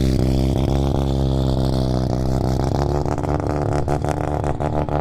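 A car engine running at low revs close by, its exhaust note holding a nearly steady pitch that wavers slightly in the first couple of seconds.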